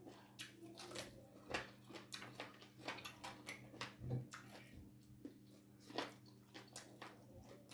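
Mouth noises of someone eating bone soup and ugali: irregular wet chewing, smacking and sucking clicks, several a second at times, over a faint steady low hum.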